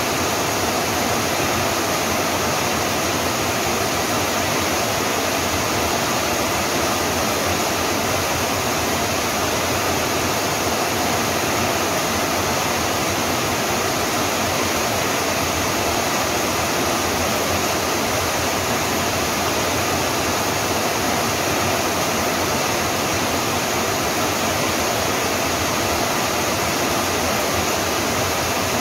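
Steady rain, an even, unbroken hiss with no single drops or other events standing out.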